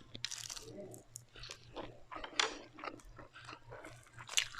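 Close-miked eating: a mouth chewing and crunching crispy fried food in irregular crackly bites, with two louder crunches, one about halfway through and one near the end.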